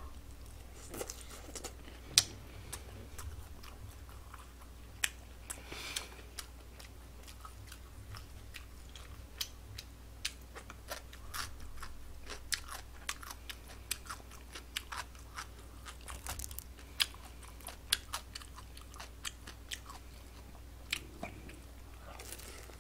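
Close-miked chewing and biting of batter-fried pork (tangsuyuk): many short, crisp crunches and mouth clicks scattered throughout, with a sharp one about two seconds in.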